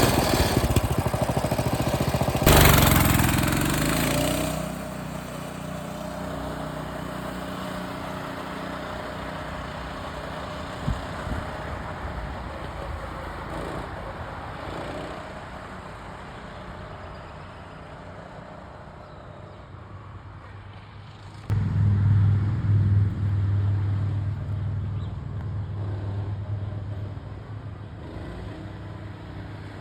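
Coleman CT200U-EX mini bike's single-cylinder four-stroke engine running. It revs up hard a couple of seconds in, then drones more faintly for a long stretch. About three-quarters of the way through it is suddenly loud and close again, then eases off.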